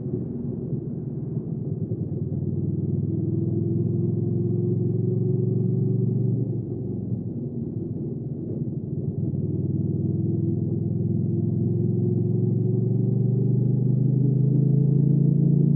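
Hyosung GV300S Supreme's V-twin engine running as the motorcycle rides, the revs rising slowly. The engine note drops about six seconds in, then builds steadily again toward the end.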